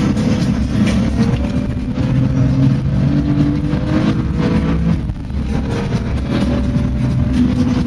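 A car engine running hard at speed over steady road rumble. Its pitch climbs slowly, then drops briefly about five seconds in before picking up again.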